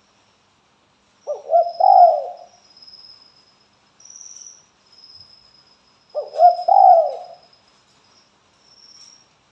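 Spotted dove cooing: two phrases of low, mellow coo notes, one about a second in and another about six seconds in. A faint, high-pitched thin tone comes and goes underneath.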